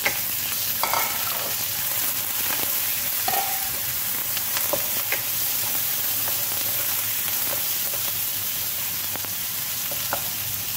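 Chopped tomato frying with onion, garlic and curry leaves in a nonstick pan, a steady sizzle while the tomato softens. A wooden spoon stirs and scrapes through it, with scattered sharp taps against the pan.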